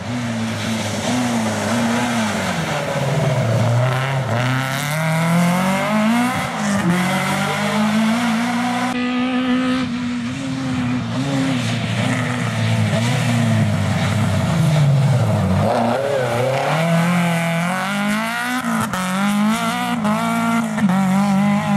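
Rally car engine revving hard, its pitch climbing and dropping again and again through the gears as the car passes on a stage. The sound changes abruptly about nine seconds in, where one pass is cut to the next.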